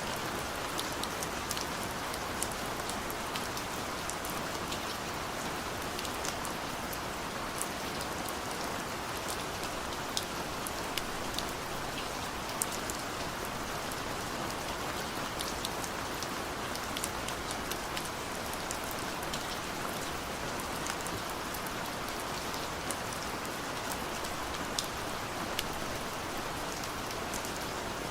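Steady rain falling, an even hiss with many individual drops ticking sharply throughout.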